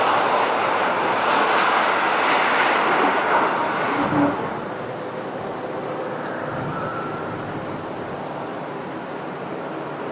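Aircraft engines running with a steady, loud rushing noise, dropping to a lower level about four seconds in.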